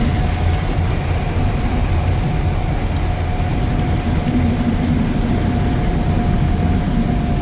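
Steady road noise inside a moving car's cabin, its tyres on a wet road in the rain, with a faint steady whine and a few light ticks.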